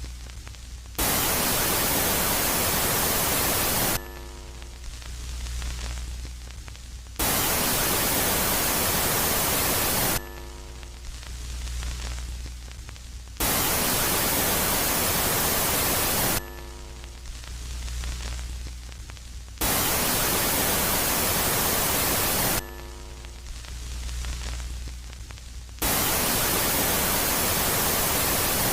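Space-ambience static track alternating between a loud and a quiet phase: blocks of loud hiss about three seconds long cut in and out abruptly, with quieter stretches of low hum, a swelling hiss and faint steady tones between them, repeating about every six seconds.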